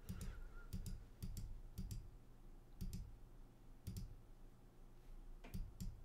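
Computer mouse button clicking, a series of faint separate clicks, several in close pairs, coming roughly a second apart as a map's date is stepped forward one day at a time.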